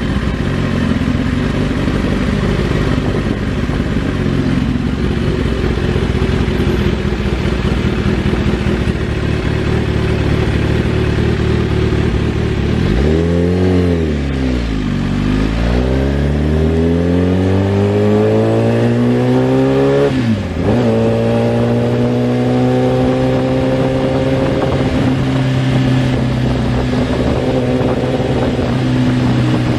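Motorcycle engine running under steady throttle, then dipping in pitch and climbing steadily as the bike accelerates. A brief break about two-thirds of the way through sounds like a gear change, after which it holds a steady note.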